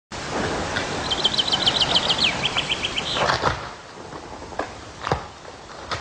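A small bird singing a fast trill of short high notes that drops to a lower, slower run of notes, over a rushing noise. Later come a few sharp clicks.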